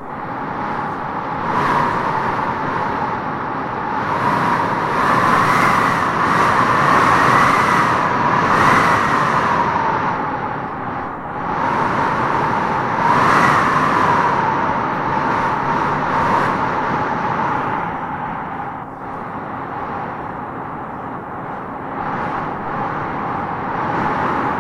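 Howling wind gusting through trees: a steady rush with a whistling howl that swells and fades, loudest in two long gusts, one in the first half and one just past the middle.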